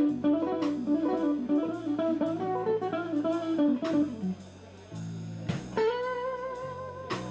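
Live blues-jazz instrumental band: electric guitar playing a quick run of single notes over bass and drums, then holding one long note with vibrato near the end.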